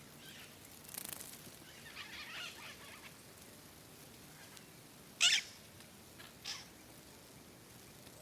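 A bird giving two short, harsh calls about a second apart, the first louder, after some faint rustling.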